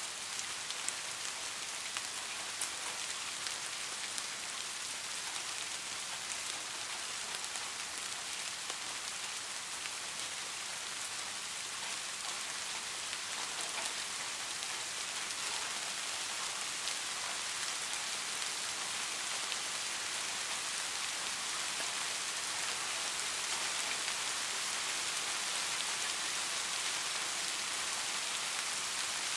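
Steady rainfall: an even, dense hiss with faint scattered drop ticks.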